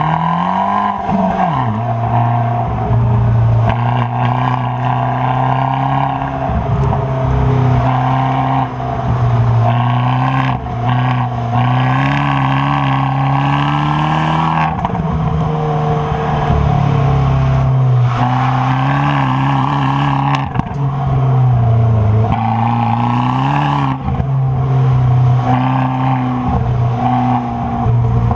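Stock exhaust of a 2013 Fiat 500 Abarth's turbocharged 1.4-litre four-cylinder under hard driving. The engine revs climb and fall again and again, with short dips every few seconds as the throttle is lifted or the gears change.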